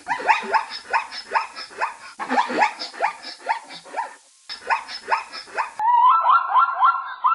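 An animal calling in a rapid series of short, rising yelps, about four a second, broken by two brief pauses.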